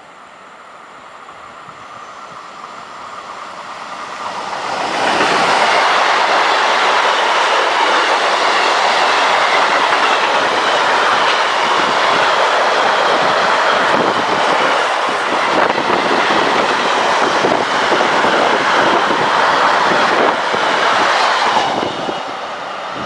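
Freight train hauled by a BLS Re 465 electric locomotive passing at speed, its wagons rumbling and clattering over the rails. The noise grows over the first five seconds as the train comes close, holds loud, then drops suddenly near the end as the last wagon goes by.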